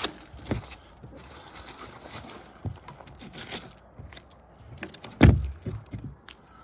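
Footsteps crunching and scraping on icy snow, with scattered knocks and one heavy thump about five seconds in.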